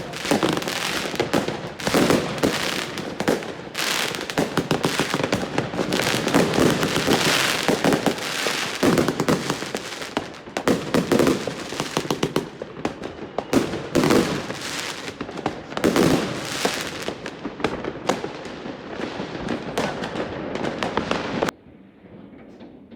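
Street fireworks going off all together: a dense, unbroken barrage of firecracker bangs and crackling, with heavier booms now and then, stopping suddenly near the end.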